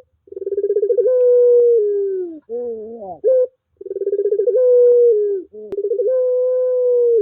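Puter pelung (domestic Barbary dove) cooing: a long held coo that opens with a rapid stutter and sags at the end, followed by a short wavering call that rises at its close, heard twice.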